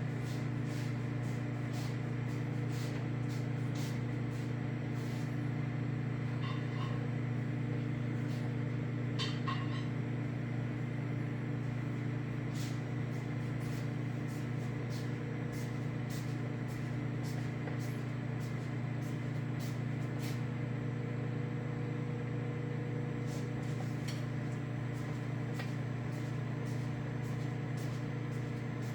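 Black & Decker 700-watt microwave oven running at full power while it heats a cup of water, giving a steady low hum with faint scattered ticks.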